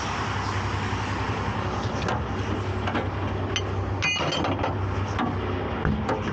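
Tow truck's engine running steadily, with scattered metallic clinks and knocks of hooks and chains as the recovery rigging is unhooked from the box truck.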